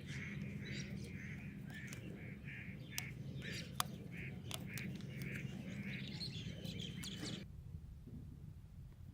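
Small birds chirping in a quick, evenly repeated series, with a few sharp clicks. Everything cuts off abruptly a little past seven seconds in.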